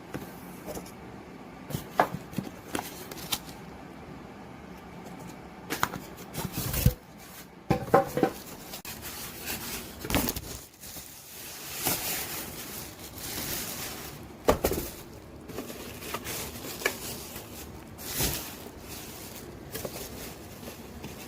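Handling noises: irregular knocks, clicks and rustling, several sharp knocks around the middle.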